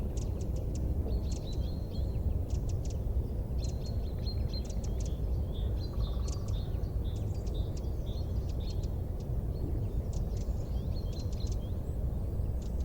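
Small birds chirping and twittering in quick runs of short, high notes over a steady low rumble.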